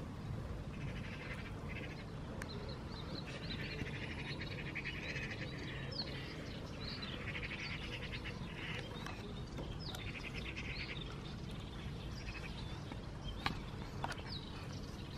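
Small birds chirping and trilling in several bouts of rapid high notes, over a steady low background noise, with two faint clicks near the end.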